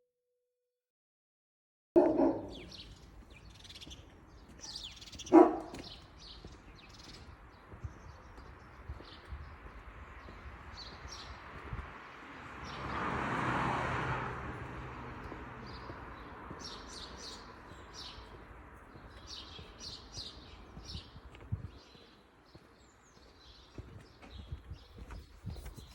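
Wild birds chirping and tweeting over a steady outdoor background. Two loud short sounds come a few seconds apart near the start, the second the loudest, and a rushing noise swells and fades about halfway through.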